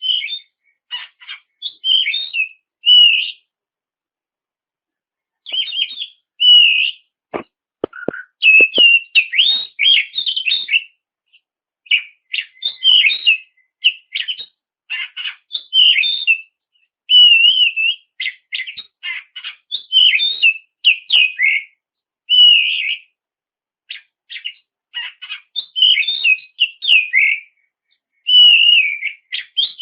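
Oriental magpie-robin singing energetically, rapid runs of varied whistles, chirps and trills in phrases broken by short pauses, with a pause of about two seconds near the start. A few sharp clicks sound about a third of the way in.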